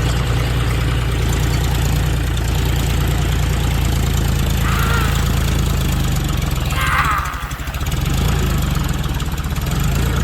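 Tractor engine running steadily with a low rumble, dipping briefly about seven and a half seconds in. Two short high chirps sound over it, about five and seven seconds in.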